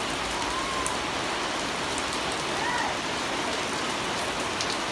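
Steady rain falling and pattering on surfaces, with scattered drop ticks. A few faint short chirps rise and fall over it, once about half a second in and again just under three seconds in.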